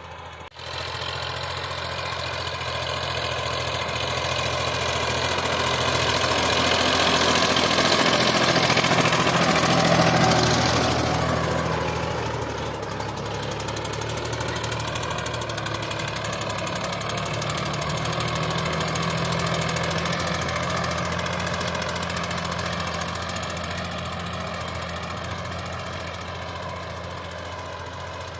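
Sonalika DI 745 tractor's diesel engine running steadily. It grows louder up to about ten seconds in, dips briefly a few seconds later, then runs on evenly.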